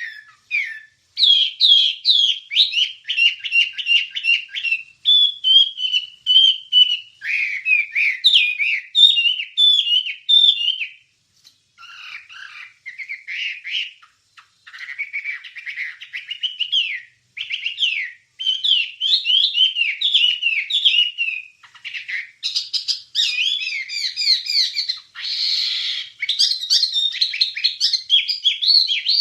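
A wambie songbird singing a fast, varied song of quick rising and falling whistled chirps. It comes in long runs broken by a few brief pauses.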